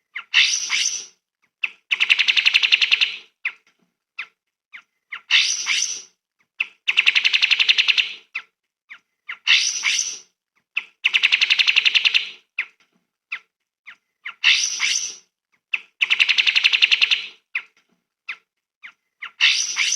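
Recorded songbird call played on a loop: a few sharp chips, a quick high trill, then a longer buzzy rattle. The phrase repeats about every five seconds.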